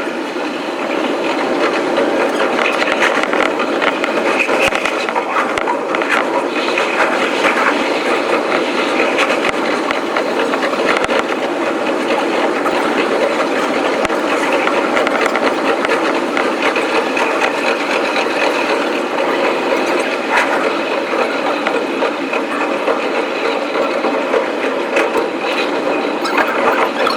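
Electric commuter train's running noise as heard from the front of the train, fast-forwarded: a steady, dense rush and rattle of wheels on rail and traction motors, with scattered short clicks.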